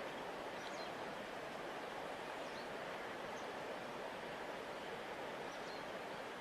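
A large river flowing with a steady, even rush of water, joined by a few faint high chirps.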